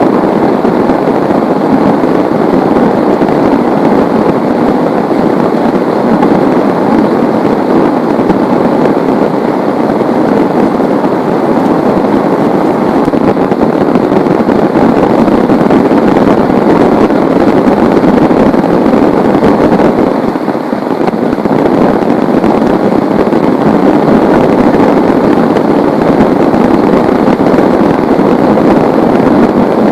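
Heavy rain pouring down, a loud, steady, dense hiss that eases slightly for a moment about twenty seconds in.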